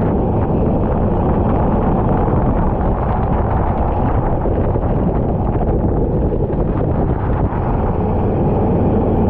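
Go-kart engine running steadily on track, a dense low drone with wind noise on the microphone.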